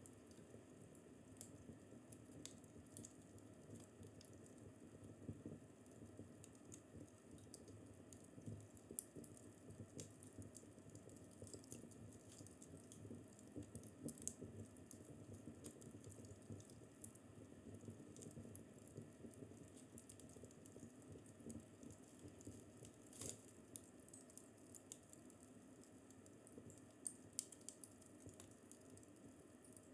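Wood fire crackling faintly in a fireplace: irregular small pops and snaps over a low, steady rumble of burning, with a few sharper snaps scattered through.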